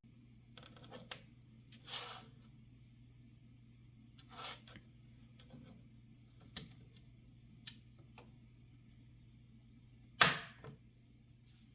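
Handling and working on an IBM Model M keyboard's parts: a few sharp clicks and short scuffing noises, the loudest a sudden knock about ten seconds in, over a steady low hum.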